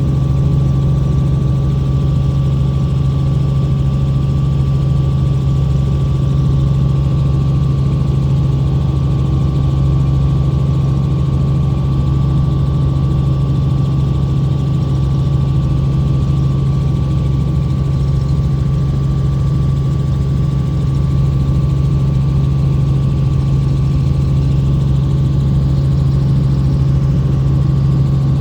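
Helicopter heard from the passenger cabin: a loud, steady low hum of rotor and engine with a fainter steady whine above it, unchanging throughout.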